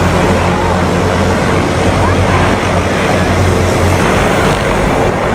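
Helicopter noise: a steady, loud engine-and-rotor drone with a low hum.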